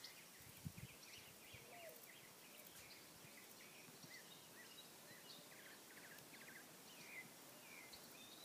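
Faint small birds chirping, with many short calls and a few quick trills, over a steady low background hiss. A brief low thump comes just under a second in.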